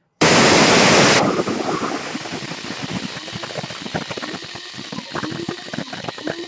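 KRUPS F203 blade coffee grinder switching on and grinding whole coffee beans for a fine grind: the stainless-steel blades start abruptly with a loud burst as the beans are smashed, then settle into a steadier, quieter whir with many small rattling clicks of grounds against the bowl.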